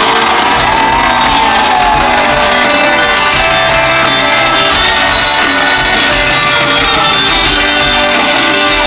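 Live country-rock band playing at full volume at an open-air concert, recorded from the crowd, with guitars and audience shouts mixed in. A falling slide in pitch comes in the first few seconds.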